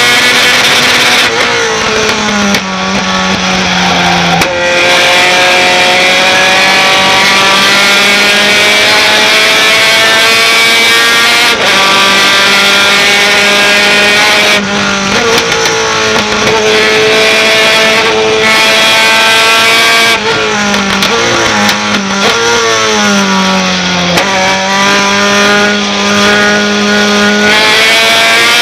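A racing pickup truck's engine running hard at high revs, the note climbing slowly and dropping abruptly at several gear changes, with a run of quick downshifts and throttle blips about three quarters of the way in.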